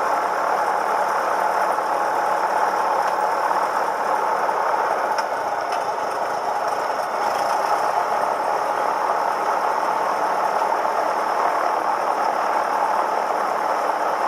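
Cessna 172M's four-cylinder Lycoming engine and propeller running steadily, an even, unchanging drone.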